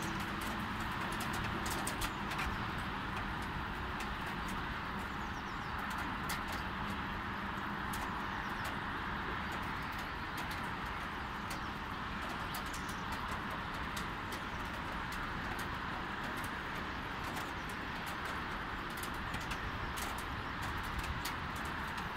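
Light rain falling: a steady hiss with many small scattered drip ticks, over the low rush of distant city traffic.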